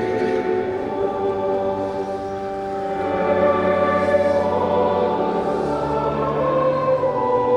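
Choral church music: a choir singing slow, held chords, the bass note shifting a few times.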